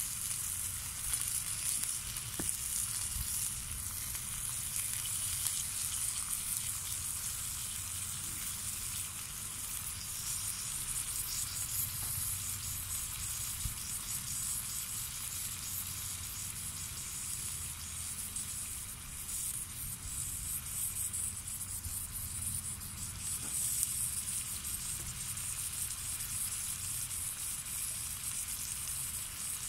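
Swedish torch log burning: a steady hiss of flame with a few small crackling pops.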